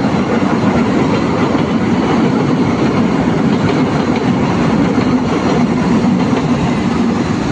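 Container freight train rolling past: the steady, loud noise of its wagons' wheels running on the rails.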